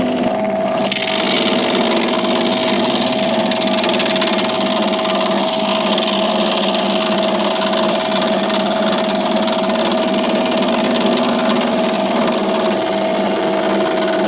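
Electric woodworking saw running steadily while cutting pine, a constant hum under a hiss of cutting that picks up about a second in.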